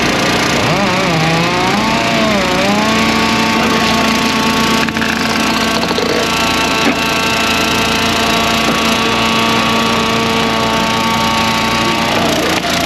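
Eastonmade 12-22 log splitter's gas engine running loud. Its pitch dips and recovers in the first few seconds as the hydraulics take load pushing the wedge through a log, then it holds steady. There are a couple of sharp knocks near the middle.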